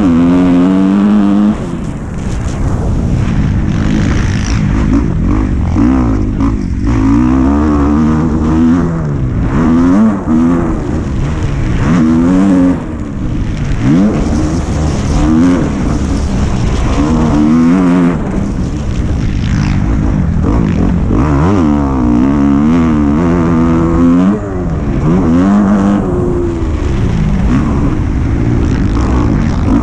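Dirt bike engine being ridden hard, its pitch climbing and dropping again and again about every two seconds as the throttle is opened and closed, over a steady low rumble.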